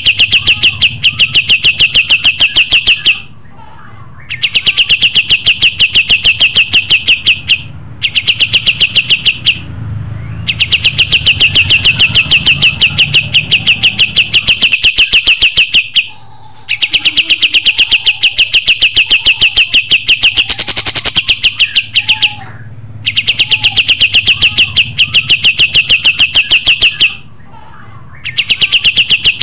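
A kapas tembak songbird singing loud, fast trills of rapidly repeated notes. Each trill lasts a few seconds, and the trills repeat over and over with short pauses between them. A low steady hum runs underneath.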